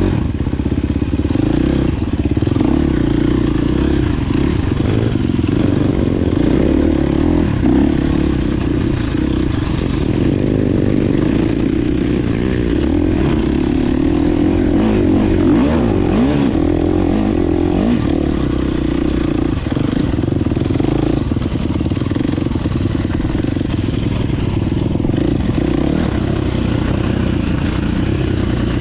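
Dirt bike engine running continuously, its revs rising and falling as it is ridden.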